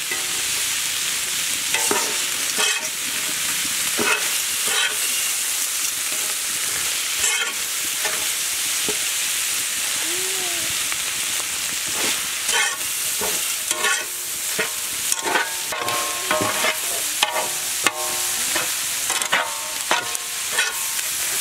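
Prawns and fried garlic sizzling in oil in a wide pan while a metal spatula stirs them. The spatula scrapes and knocks against the pan, some strokes ringing briefly, and the strokes come more often in the second half.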